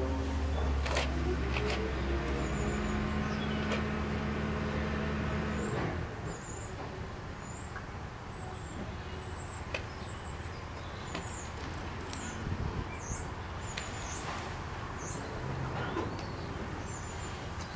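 Wild birds chirping in short, high, repeated notes over a low steady hum that stops about six seconds in.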